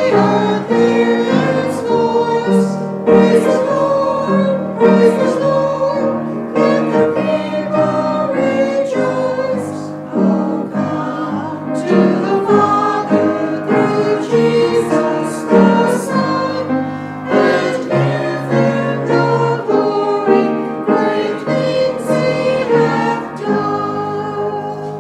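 Church choir singing a hymn with instrumental accompaniment, the music dying away at the very end.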